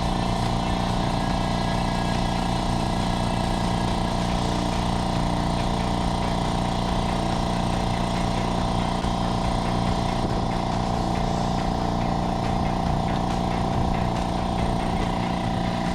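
Craftsman dual-cylinder air compressor running steadily after its cylinders have been replaced, pumping up the tank, which it brings to 60 psi quickly.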